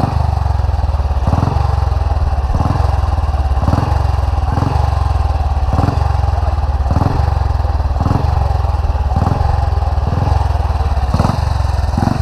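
Historic motorcycle engine running steadily with a low rumble, pulsing about once a second.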